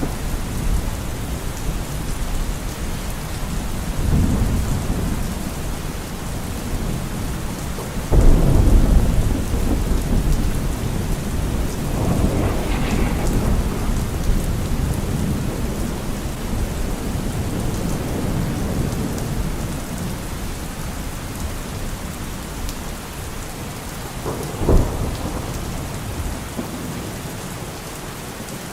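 Thunderstorm: steady rain with rolling thunder. A loud thunderclap breaks about eight seconds in and rumbles on for several seconds, fainter rumbles come and go, and a short sharp crack of thunder sounds near the end.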